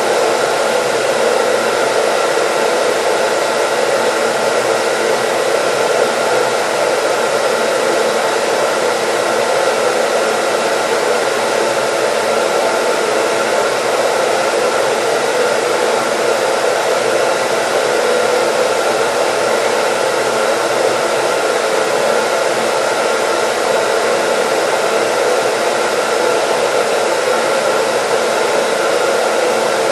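Hair dryer running steadily: an even blowing noise, strongest in the lower middle range, with a faint steady whine over it and no change in level.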